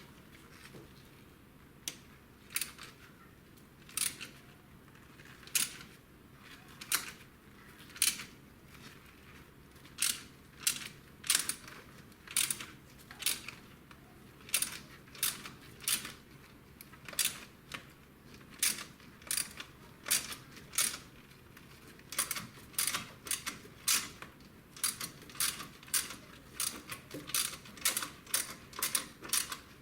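Ratchet wrench clicking as it loosens the bolts joining the exhaust header to the exhaust pipe: sharp single clicks, slow at first and speeding up to two or three a second toward the end.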